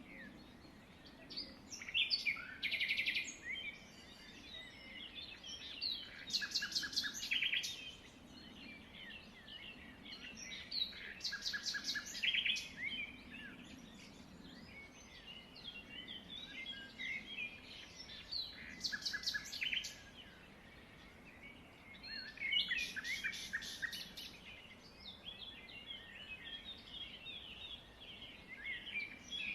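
Many small birds chirping and twittering together, with louder bursts of rapid trilled calls every few seconds.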